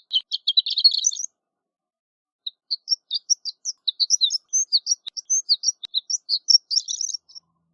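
Horned lark singing: a quick cluster of high notes, a pause of about a second, then a longer run of separate high notes lasting about five seconds.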